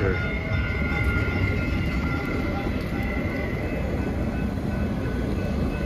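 Train running past with a steady low rumble and a thin, steady high whine over it.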